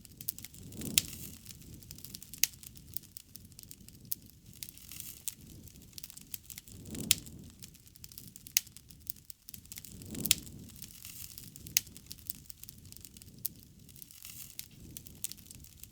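Wood bonfire crackling, with frequent sharp pops and snaps of varying loudness and a low soft rush of flame that swells a few times.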